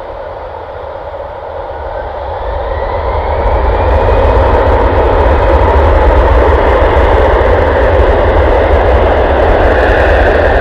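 An Airbus A320's jet engines grow louder over the first four seconds, with a whine rising in pitch. They then hold a steady, loud jet noise.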